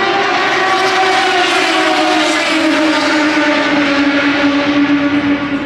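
Motorcycle engine running at high revs as one steady note, its pitch slowly falling.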